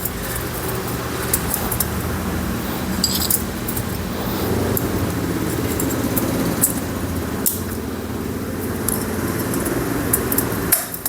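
Light metallic clinks and scrapes as a motorcycle cylinder is worked down over the piston rings with a screwdriver, over the steady drone of a vehicle engine running in the background.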